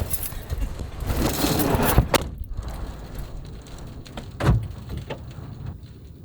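Rustling and handling noise that ends with a sharp knock about two seconds in, then a quieter stretch with a dull thump about four and a half seconds in and a few light clicks.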